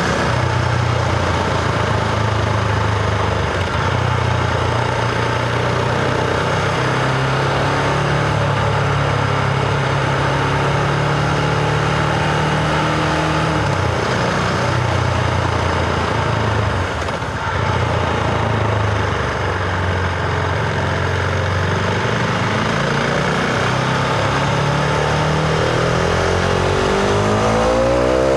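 Husqvarna Vitpilen 701's single-cylinder engine and exhaust running under way, revs mostly steady with a brief drop about two-thirds through, then rising sharply near the end as the bike accelerates.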